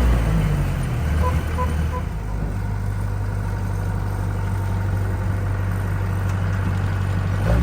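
Diesel engine of a rice combine harvester running steadily, its low hum shifting pitch a couple of times in the first two seconds and then holding even.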